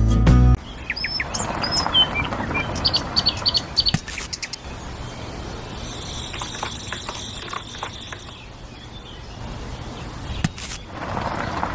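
Background music that cuts off suddenly just under a second in, followed by birds chirping in short rising and falling calls over a faint outdoor background, with a few light clicks.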